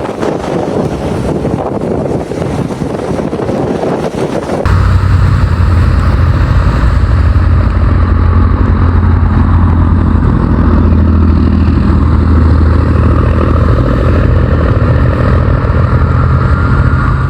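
Wind rushing on the microphone, then, about five seconds in, an abrupt change to a loud, steady, low engine drone of a vehicle running.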